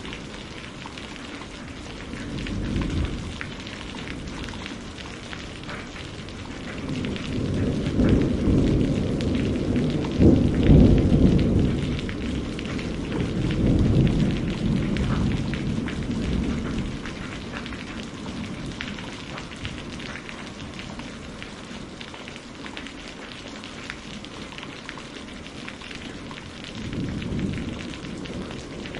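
Steady rain with thunder rumbling over it: a short rumble about two seconds in, a long rolling peal from about seven to seventeen seconds that is loudest around ten seconds, and another short rumble near the end.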